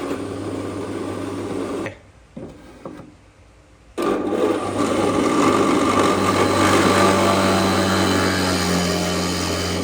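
Electric power tool running against wood, with a steady motor hum. It drops out for about two seconds a couple of seconds in, then comes back a little louder.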